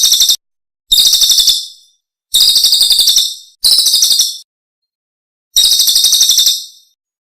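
Recorded songbird chirping in short bursts of fast, high, evenly repeated notes, about a dozen a second. There are five bursts, each cut off by dead silence, as in an edited bird-song master (masteran) track.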